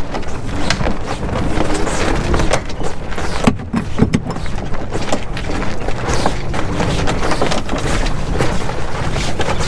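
Wind buffeting the microphone aboard a small sailboat under sail, a steady low rumble with scattered knocks and clicks.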